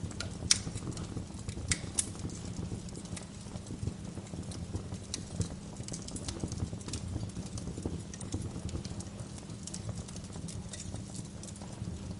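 Wood fire in a fireplace crackling, with irregular sharp pops over a steady low rumble; the loudest pop comes about half a second in.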